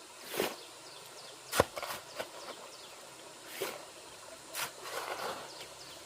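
A series of separate scrapes and knocks, a few seconds apart, from hand work outdoors. The sharpest knock comes about a second and a half in.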